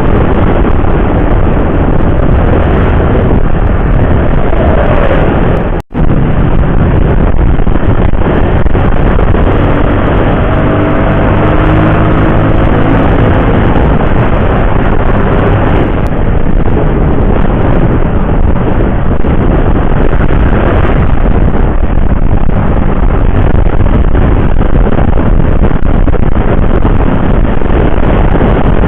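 Road travel on a motorcycle: heavy, steady wind rush on the microphone with vehicle engine noise underneath. A steady engine tone stands out for several seconds in the middle, and the sound cuts out for an instant about six seconds in.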